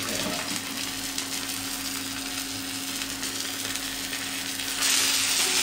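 Beef seekh kababs sizzling in their own fat on a flat iron tawa over a low gas flame: a steady frying hiss that grows louder about five seconds in, with a faint steady hum underneath.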